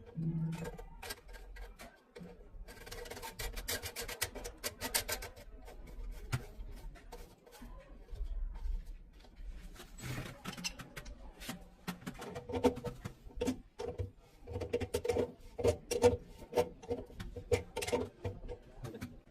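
Hand work on PVC pipe: irregular scraping and rubbing, with many small clicks and knocks that come thicker in the second half.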